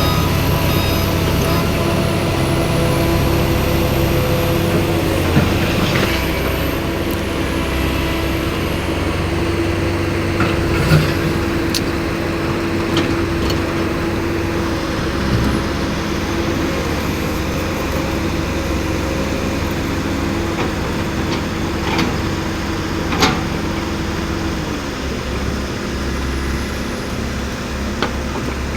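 Heavy diesel engines running steadily at a road repair site, with a few sharp knocks now and then.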